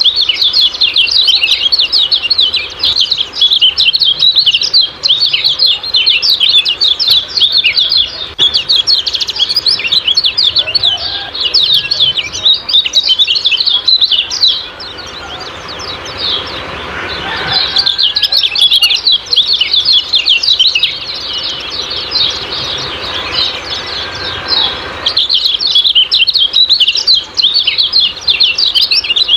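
Kecial kuning white-eye giving its rapid, high 'ciak-ciak' chirping in a dense stream, pausing for a few seconds about halfway in while a steady hiss carries on, then resuming.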